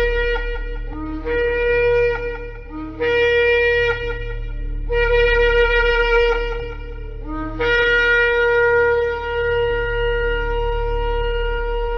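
Shofar blown in a series of blasts, each starting on a low note and jumping up to a higher held note. Four shorter blasts of one to two seconds come first, then a long steady blast begins at about eight seconds in.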